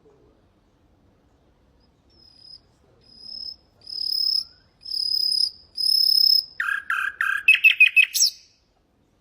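Nightingale singing one song phrase: starting about two seconds in, a series of long, pure, high whistled notes that grow louder, then a rapid run of lower, choppy repeated notes ending in a quick upward flick.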